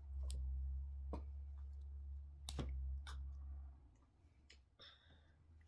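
A handful of sharp clicks and knocks over a low steady hum that stops about four seconds in.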